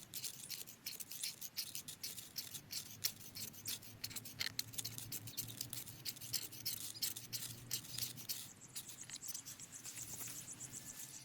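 A rapid, irregular run of crisp crackling and scraping clicks, several a second, over a faint low steady hum.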